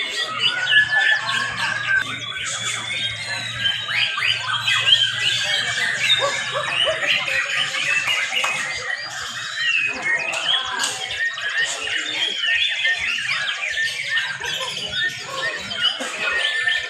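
Many young white-rumped shamas (murai batu) singing at once, a dense, unbroken tangle of overlapping whistles, trills and chirps. A faint low hum runs under them for the first half.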